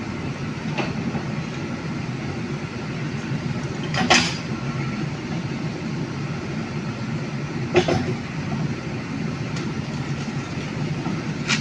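Heavy diesel engine running steadily at low revs, with a sharp knock about four seconds in and another about eight seconds in.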